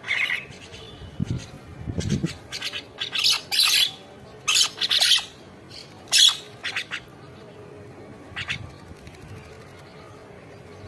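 Birds squawking in short, harsh bursts, clustered in the first six seconds, with a fainter call about eight and a half seconds in.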